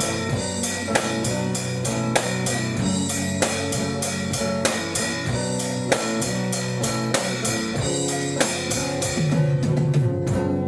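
Instrumental break of a band song: guitar with drum kit and bass guitar keeping a steady beat, no singing.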